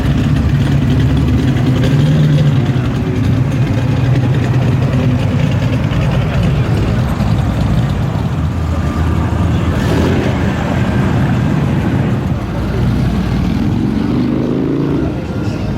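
Car engine running with a deep, steady low rumble, then rising in pitch near the end as it revs up.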